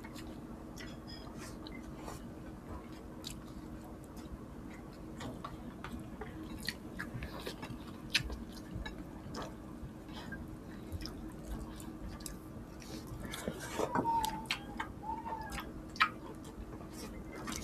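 Close-up eating sounds: chewing and scattered wet mouth clicks from people eating saucy chicken and rice by hand. A faint steady hum runs underneath.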